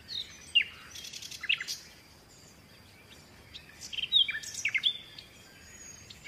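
Small birds chirping: short, quick, high chirps that sweep downward, in two clusters with a quiet pause of about a second and a half between them.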